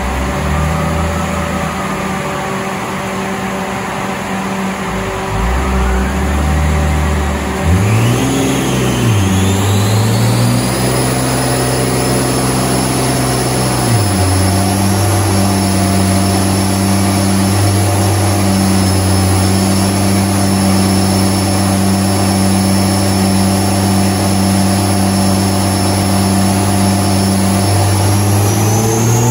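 Holden VF Commodore direct-injected V6 on its stock intake, running on a chassis dyno as the car is brought up through the gears for a baseline power run. Engine speed rises and falls about a third of the way in, drops at a gear change, and holds steady under a high whine from the rollers and tyres. Revs begin to climb near the end.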